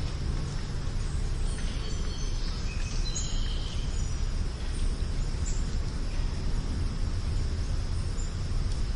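Outdoor nature ambience: a steady low rumble under a steady high insect hum, with a few short bird chirps a couple of seconds in.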